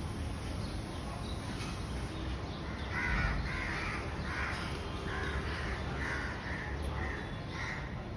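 A bird giving a run of harsh, repeated calls, about two a second from about three seconds in, over a steady low background rumble.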